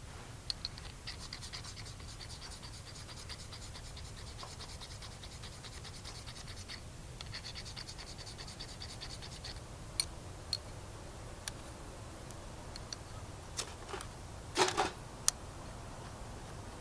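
Rapid, fine scraping that runs for about nine seconds with a short break in the middle, then stops and gives way to a few scattered sharp clicks and a couple of louder knocks near the end.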